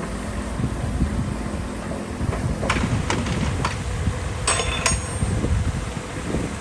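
Heavy diesel earthmoving machinery running low and steady, with about five sharp metallic clanks in the middle, two of them ringing.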